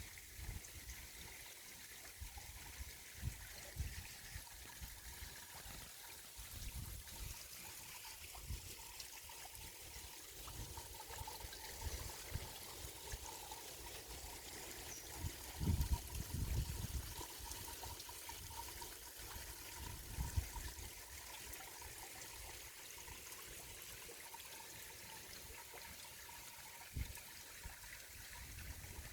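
Mountain valley stream trickling and flowing steadily over rocks, with irregular low thuds every few seconds.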